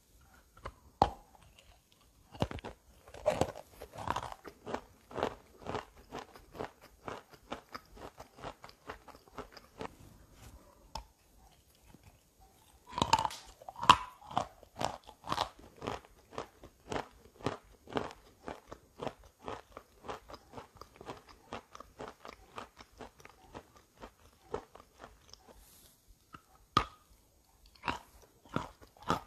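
Crunchy biting and chewing of wet chalk and gray clay paste. There are loud bites a few seconds in and again around the middle, with a steady run of softer chewing crunches between and after.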